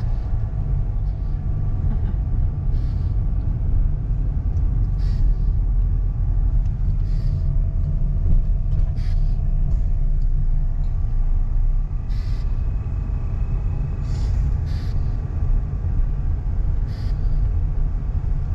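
Steady low rumble of a moving car, heard from inside, with a few faint short clicks scattered through it.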